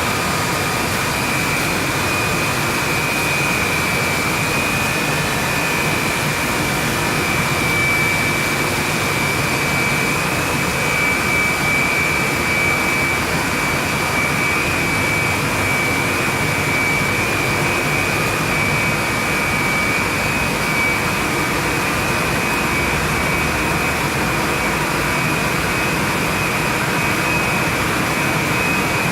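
Chain-grate steam boiler plant running: a loud, steady rush of air like a large blower or draft fan, with a constant high whine over it.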